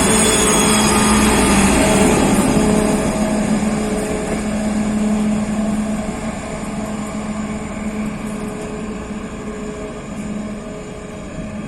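Diesel train running past and moving away: a steady engine drone over wheel rumble, fading gradually.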